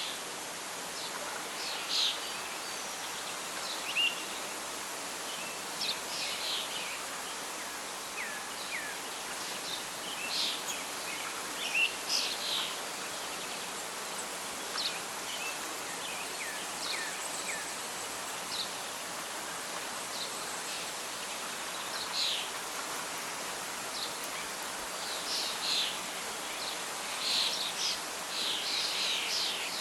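Birdsong over a steady background hiss of wind and rustling leaves: scattered short chirps and trills from several birds, more frequent near the end.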